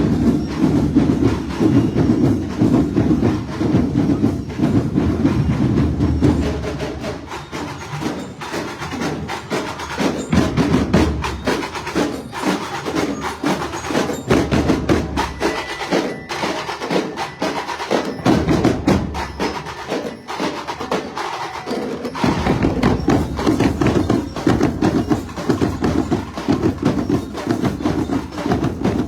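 Percussion-heavy carnival music: drums and a dense, clicking wood-block-like rhythm, softer through the middle and full again about twenty-two seconds in.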